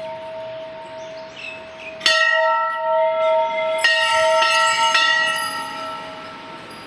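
A hanging temple bell rung by hand: ringing from an earlier stroke, then struck about three more times, a clear strike each time and a long ring that slowly fades.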